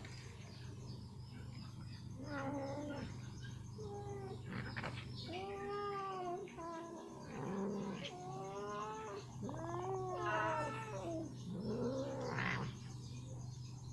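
A cat giving a series of about six drawn-out, wavering meows and yowls, one after another, over a steady low hum.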